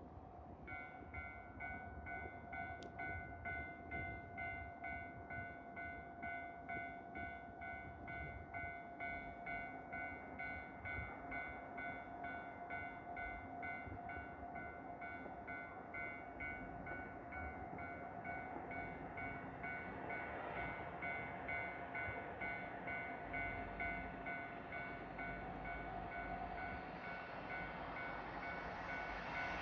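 Railway warning bell ringing in a steady ding-ding rhythm of about two strokes a second, starting about a second in. Under it, the rumble of an approaching Kiha 283 series diesel express train grows louder toward the end.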